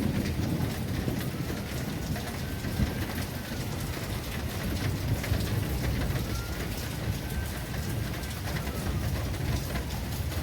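Heavy rain falling steadily, with a low rumble of thunder at the start. A faint tone slowly rises and falls behind the rain.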